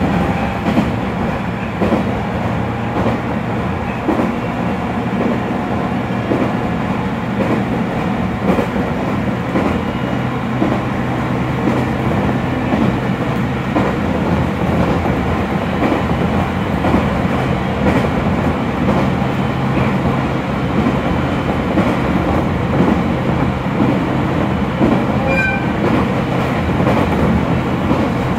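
Inside the cabin of an electric local train running along the line: a steady low running hum, with the wheels clacking over rail joints every so often.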